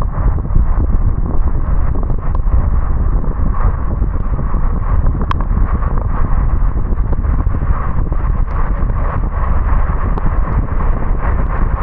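Steady low rumble and hiss of a car driving on a wet road in the rain, with scattered light ticks.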